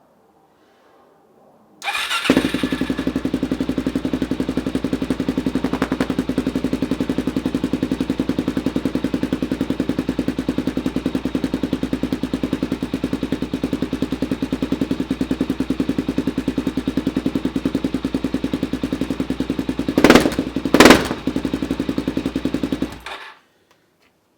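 Suzuki DRZ400SM's single-cylinder four-stroke engine, breathing through a shortened Yoshimura exhaust, starting about two seconds in and idling with a steady rapid beat. Near the end it gives two brief, loud bursts, then shuts off. The note is way louder than the owner expected.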